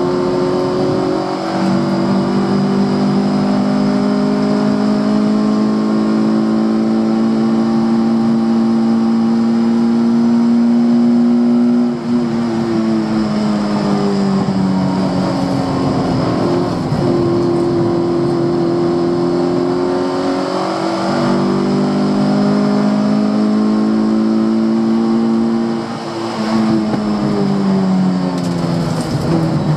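Fiat Cinquecento's 900cc four-cylinder engine heard onboard, held at steady high revs for long stretches, its pitch falling for a few seconds about twelve seconds in and again near the end before climbing back. The owner blames a damaged DET3 engine controller for keeping the car in second gear near 8200 rpm.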